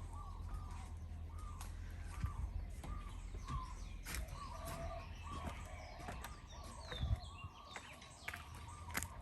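Birds calling: a long run of short repeated notes, with a higher descending call about six seconds in, over a steady low rumble.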